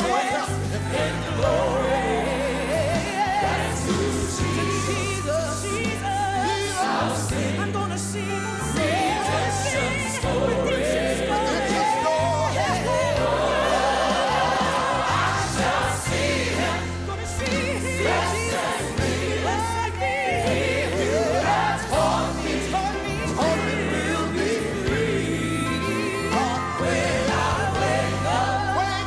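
Gospel quartet song: several voices singing in harmony over instrumental backing with a bass line that steps from note to note.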